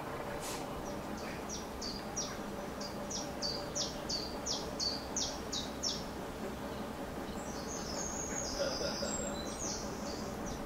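A songbird singing: a run of quick, repeated high notes, each sweeping downward, about two a second, then a different, higher twittering phrase near the end. Under it runs a faint, steady hum.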